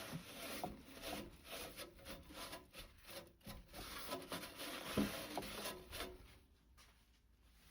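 Rubbing and scraping of things being handled and moved on a workbench, with scattered ticks and a single knock about five seconds in; it dies down after about six seconds.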